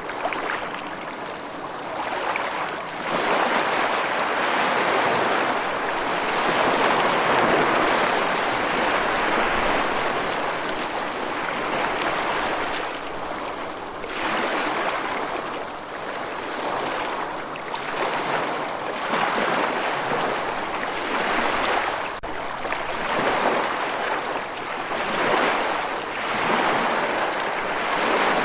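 Sea waves washing in: a steady rushing of water that swells and falls back every few seconds.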